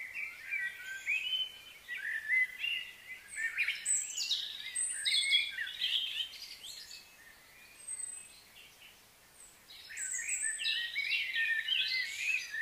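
Small birds chirping and calling, many short, quick twittering notes overlapping in busy bursts, with a lull about halfway through before they pick up again.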